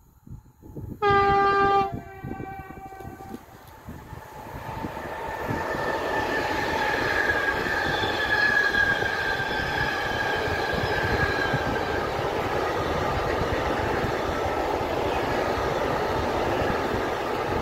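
A Siemens Vectron electric locomotive sounds its horn about a second in: one loud blast of about a second, trailing off into a quieter tail. The freight train of semi-trailers on pocket wagons then rolls past close by with a steady rumble of wheels on rail, and for a while a high ringing from the wheels.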